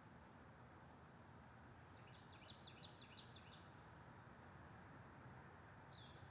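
A small songbird sings a short phrase of about five quick falling notes, then gives one short call near the end, over a faint steady wind hiss.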